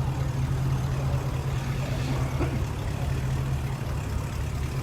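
A car's engine idling with a steady low rumble as the car is edged into a parking spot.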